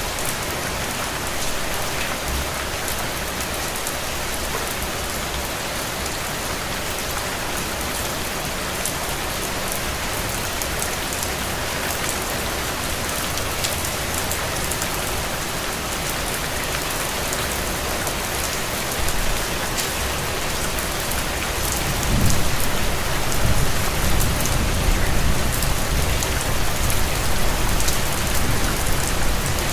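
Steady rain on a window: an even hiss flecked with the ticks of single drops. About two-thirds of the way through, a deeper low rumble swells in under it and the sound grows louder.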